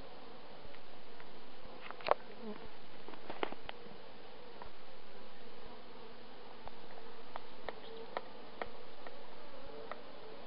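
Honeybee swarm buzzing steadily, with scattered short clicks and snaps.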